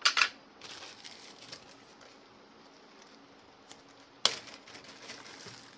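Handling noise of small hard parts: a couple of sharp clicks or knocks right at the start and a louder one about four seconds in, with light scattered ticks and rustling in between.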